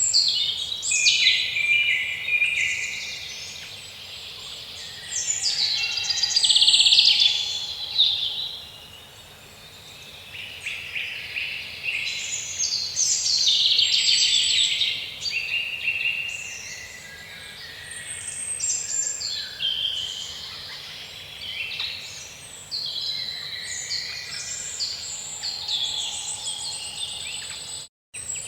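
Birds chirping: a busy run of high, varied calls that swells and fades. The sound cuts out completely for a moment near the end.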